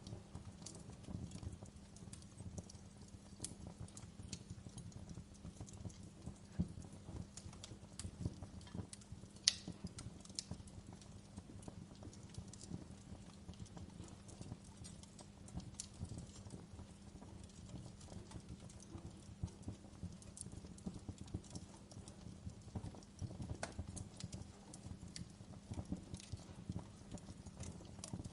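Wood fire crackling in a fireplace: a dense run of soft low pops with scattered sharp snaps, the sharpest about nine and a half seconds in.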